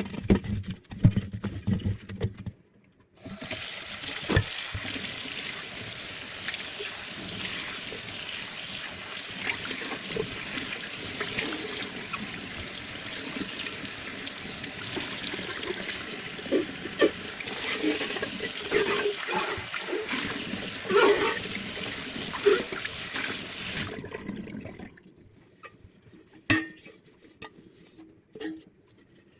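Water running from a tap into a sink, starting about 3 seconds in and shut off after about 24 seconds, with scattered knocks of things being handled under the stream. Short knocks and clatter come before and after the water.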